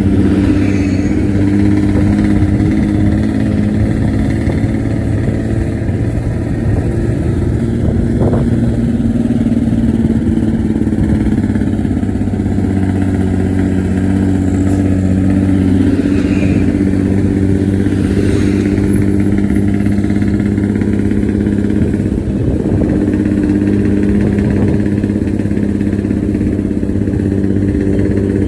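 A bus's diesel engine running at a steady speed, with a deep, rumbling exhaust note of the kind called 'ngorok' (snoring).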